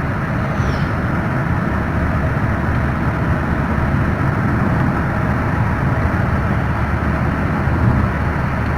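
Honda Brio Satya's 1.2-litre four-cylinder engine running with road noise while the car drives, a steady low rumble without clear changes in pitch.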